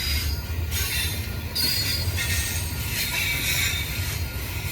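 Freight cars of a double-stack container train rolling past with a low rumble, the steel wheels squealing high-pitched on the rail, on and off.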